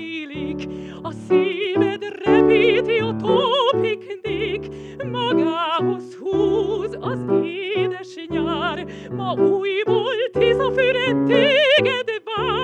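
A woman singing in operatic style with a wide vibrato, in phrases with short breaths between them, over sustained instrumental accompaniment.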